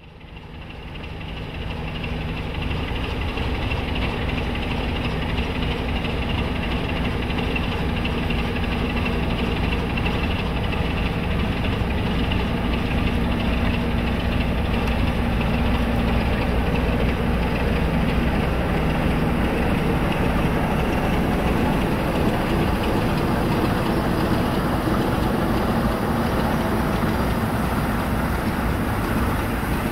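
Steam-hauled train of coaches rolling slowly past: a steady rumble from the train with a low steady hum beneath it.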